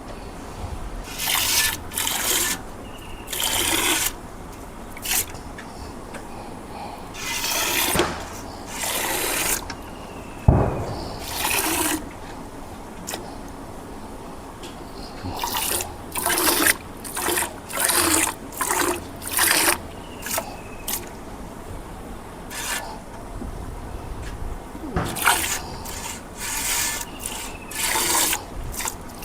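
An uneven series of about twenty short scraping strokes, each under a second and some coming in quick runs of about one a second, with a single thump about ten seconds in.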